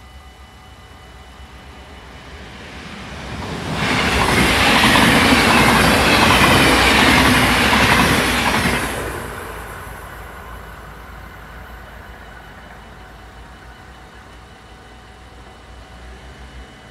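An NS double-deck electric passenger train passes the level crossing at speed. The rush of its wheels on the rails builds over a couple of seconds, is loudest for about five seconds, then fades away. Under it, the crossing's warning bells ring steadily and stop near the end.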